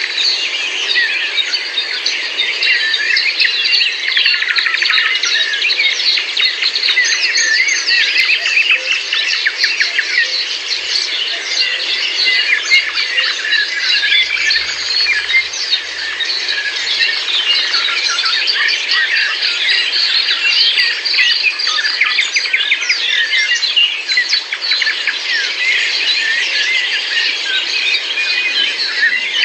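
A dense chorus of many songbirds calling and chirping over one another without a break.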